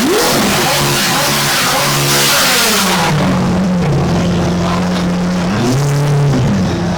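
A car engine revving hard with a loud exhaust. The pitch climbs and drops repeatedly, holds steady at a raised speed for a couple of seconds in the middle, then rises and falls once more near the end.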